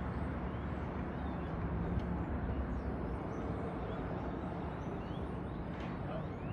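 Steady outdoor background noise with a low rumble like wind on the microphone, and faint short bird chirps now and then; no band music.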